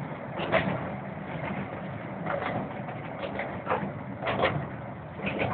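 Miniature steam train running along the track: a steady low rumble with irregular sharp clicks, several in close pairs, like wheels passing over rail joints.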